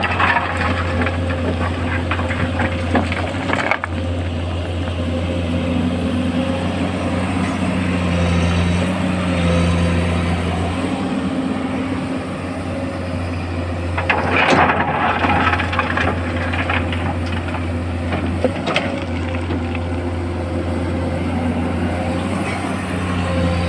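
Excavator's diesel engine running steadily under work, with stretches of rattling clatter near the start and again past the middle.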